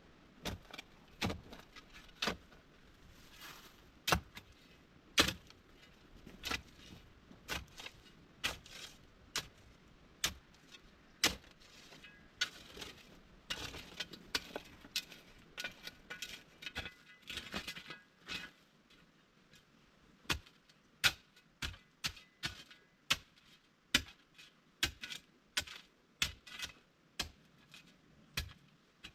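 A long irregular series of sharp knocks and clicks from hand work on wood, about one a second at first and coming quicker, about two a second, in the second half.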